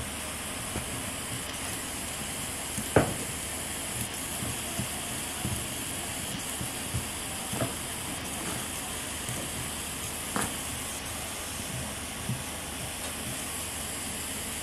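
Kitchen cooking sounds: a steady sizzling hiss with scattered clinks and knocks of utensils, the loudest knock about three seconds in.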